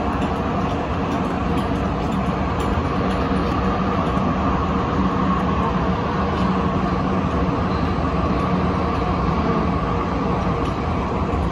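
Steady running noise heard inside the cabin of a moving MTR Tung Chung line CAF electric train: an even rumble of wheels on rail at speed, with no change in level.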